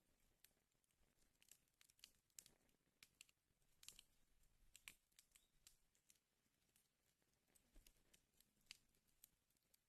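Wood fire crackling faintly in a fireplace: irregular sharp pops and snaps over a soft hiss.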